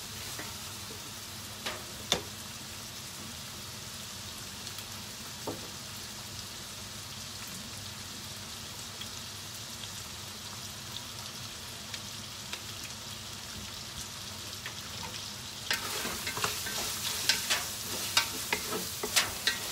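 Chopped chicken frying in oil in a stainless steel pot, a steady sizzle. About 16 seconds in, a wooden spatula starts stirring, scraping and knocking against the pot.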